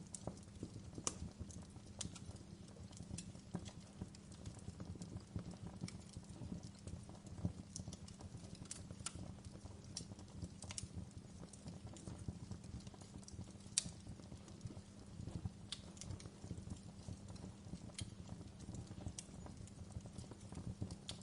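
Wood fire crackling over a steady low rumble, with irregular sharp pops and snaps, two louder ones about a second in and about two-thirds of the way through.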